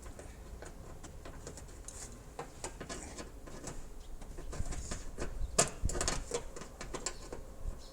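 Light clicks and taps of hand work on car body parts, scattered at first and busier and louder after about four and a half seconds, with a couple of sharper knocks near six seconds.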